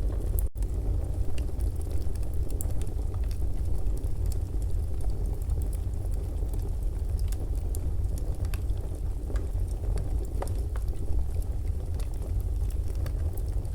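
Fireplace recording: a wood fire crackling with irregular sharp snaps over a steady low rumble, with a momentary dropout in the sound about half a second in.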